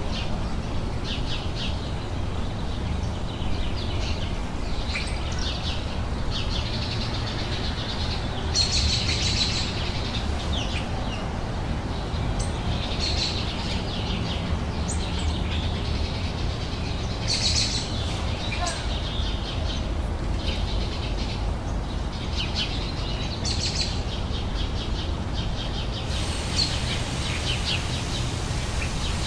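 Small songbirds chirping and singing, with many short, high calls and trills overlapping one another, over a steady low background rumble.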